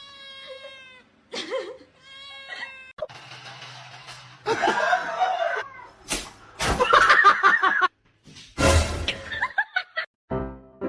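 A cat meowing a few times, followed by people laughing, with a few sharp knocks.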